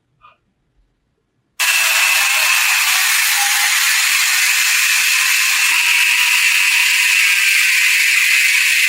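A power tool switches on abruptly about a second and a half in and runs steadily, a loud rattling hiss as it works rust off the metal lamp.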